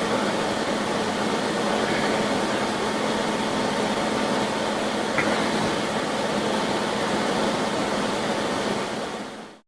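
A steady rushing noise with a faint constant hum underneath, fading out just before the end.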